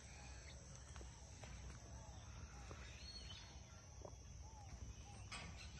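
Faint outdoor ambience: distant birds giving short, arched chirps several times over a steady low rumble.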